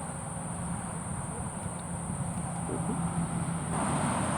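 Insects giving a steady, high-pitched drone, over a low background of distant noise that swells near the end, typical of passing traffic.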